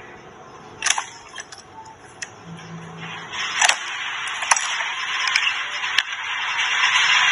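Screen printing machine working, with a scatter of sharp clicks and clacks over a rushing hiss that grows louder from about halfway through.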